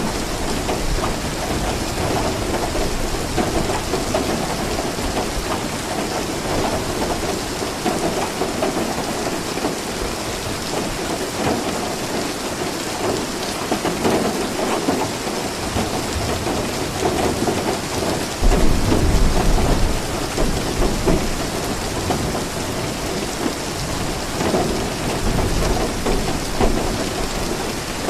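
Steady rainfall, with a low rumble of thunder starting about two-thirds of the way in and lasting a few seconds.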